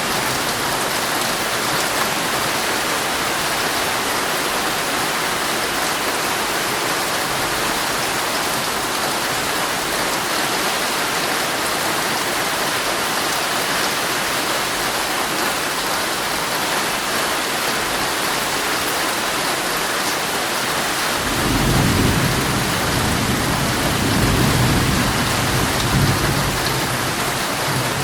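Heavy rain falling steadily on a tent, heard from inside. About three quarters of the way through, a roll of thunder rumbles for several seconds, swelling a few times before it fades.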